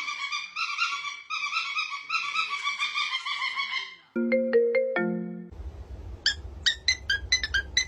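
A repeating, warbling ringtone-like melody for about four seconds, then a few clean held notes. Near the end comes a low hum with scattered sharp ticks.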